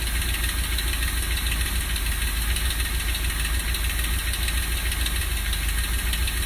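Freshly rebuilt 1965 Ford Thunderbird 390 V8 running on its first start after the rebuild, sounding horrible: a loud, steady, rough rumble.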